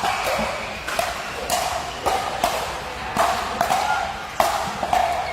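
A ball being struck back and forth in a doubles rally: about eight sharp knocks, irregularly spaced about half a second apart.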